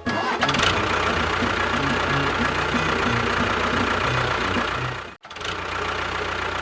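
An engine running steadily with a fast knocking clatter; it cuts out for a moment about five seconds in, then runs on a little quieter.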